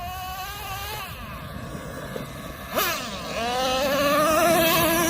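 Traxxas Revo 3.3 nitro RC truck's small two-stroke glow engine running at high revs, a high whine that wavers as the throttle changes. About three seconds in there is a quick sweep in pitch, then a steadier, louder whine that fades near the end.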